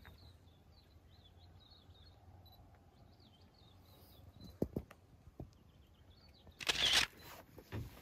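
Faint birdsong: thin, wavering chirps repeating through the first six seconds. A few sharp clicks come near the middle, and a short, loud rustling burst comes about seven seconds in.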